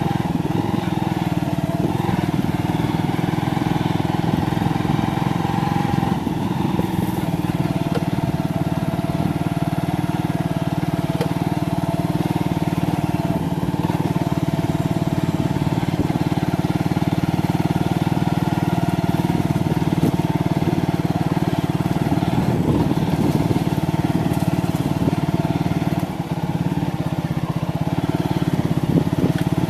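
Motorcycle engine running steadily under way, easing off briefly near the end.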